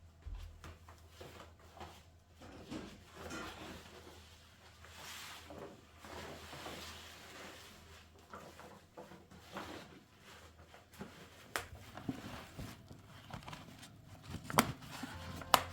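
Household handling noises: rustling with scattered soft knocks and clicks, and two sharper knocks near the end.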